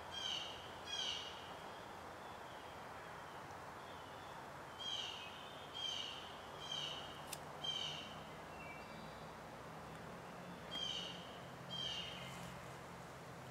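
A woodland bird calling repeatedly: short, harsh, downslurred calls in bunches of two to four, with pauses between the bunches. A single sharp click comes about seven seconds in, and a faint low hum starts about halfway through.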